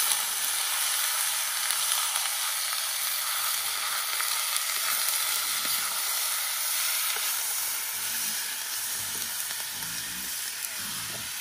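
Cubes of raw red meat sizzling in a hot pan on a clay charcoal stove: a steady frying hiss, with the scrape of a wooden spatula as the meat is stirred.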